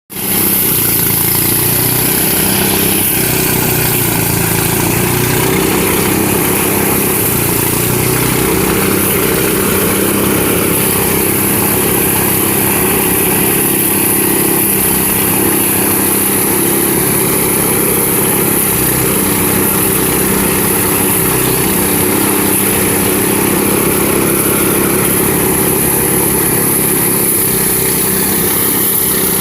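Engine-driven rice threshing machine running steadily: a small engine's even hum under a continuous high hiss.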